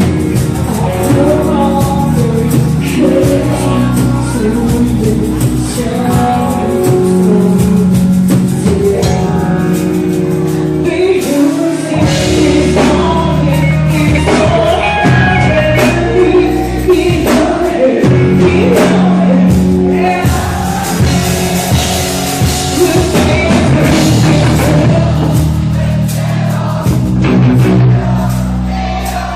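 A band playing a rock-style song with a lead singer over drums and guitar.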